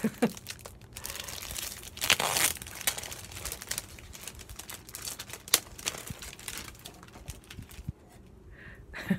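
Packaging crinkling and tearing as gift items are handled and unwrapped by hand, with a louder rustle about two seconds in and fainter handling noises after.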